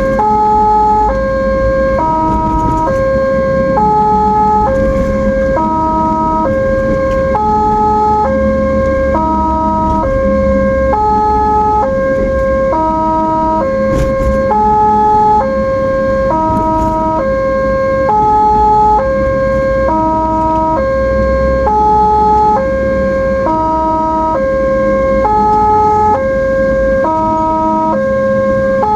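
Ambulance siren sounding a two-tone hi-lo pattern, alternating steadily between a high and a low note, over a low road and engine rumble.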